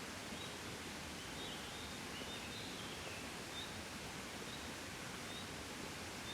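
Gentle breeze blowing steadily, a soft even hiss. Faint, short, high chirps of a small bird come roughly once a second, with a brief run of them in the middle.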